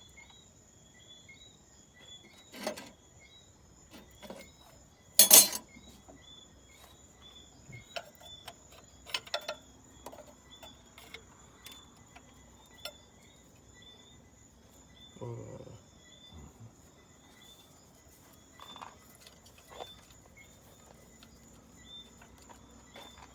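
Night insects chirping steadily, with scattered metallic clinks and knocks of hand tools on the tractor. The loudest is a sharp knock about five seconds in.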